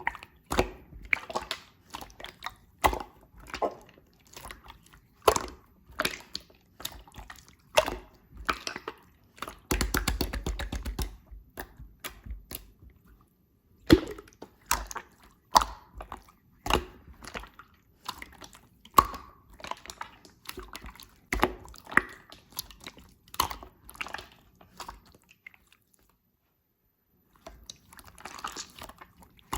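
Hands squishing and poking slime, making irregular sticky clicks and pops, with a denser squelching stretch about ten seconds in and a short silent gap near the end.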